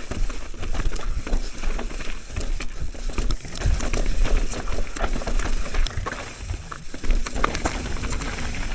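Mountain bike riding down a rooty dirt trail: the tyres crunch over the ground and roots while the chain and frame rattle, with many small knocks throughout. Wind rumbles on the microphone.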